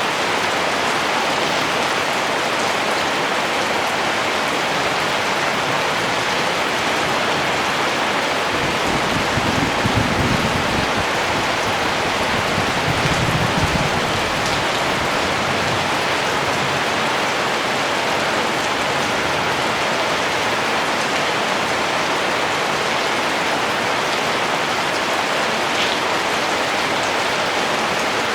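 Steady rain falling, a dense even hiss. A low rumble swells underneath for several seconds about a third of the way in.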